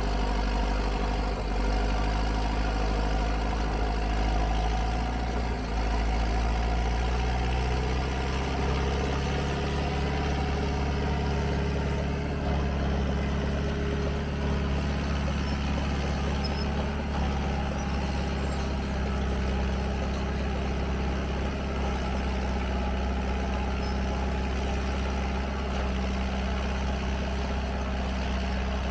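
Heavy diesel engine of a logging truck or forestry machine running steadily with a low hum. Its note rises a little about seven seconds in and then holds.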